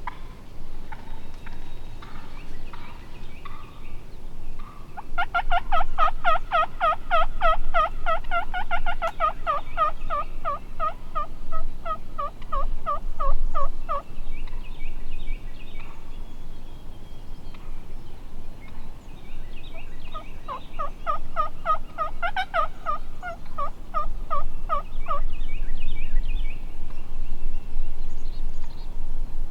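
Turkey yelping: a long run of rapid yelps, about five a second, dropping slightly in pitch toward its end, then a second, shorter run several seconds later. Faint higher chirps come between and after the runs.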